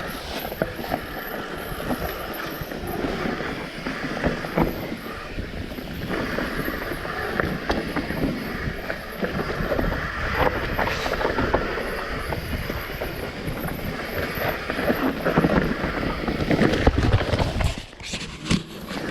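Mountain bike descending at speed over rough ground: a steady rush of tyre and wind noise with frequent knocks and rattles from the bike.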